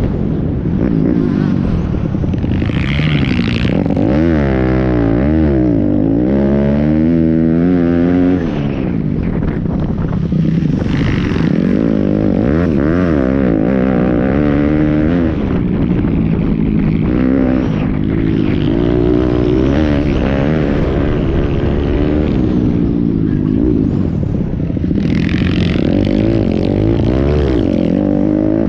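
Pit bike engines revving, their pitch rising and falling over and over as the throttle opens and closes.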